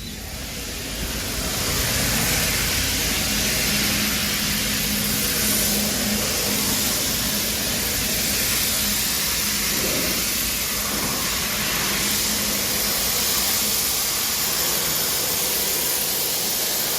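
Abrasive blasting (sandblasting) nozzle blasting steadily, a loud hiss of air and grit that builds over the first couple of seconds and then holds.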